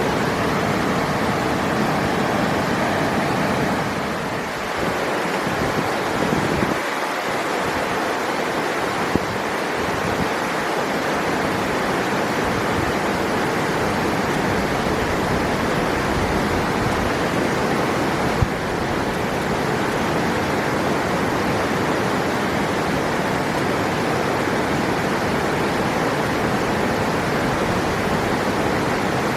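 River water rushing steadily, with two brief clicks about nine and eighteen seconds in.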